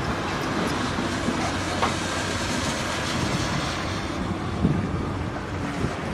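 Heavy diesel machinery running: a steady engine rumble with mechanical clatter.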